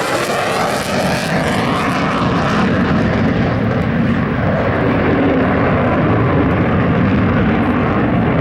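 Airplane flying past with loud, steady engine noise; the high hiss fades after about three seconds as it draws away.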